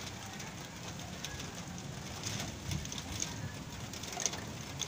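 Light rain beginning to fall, with scattered drops ticking over a steady hiss, while a bird calls in the background.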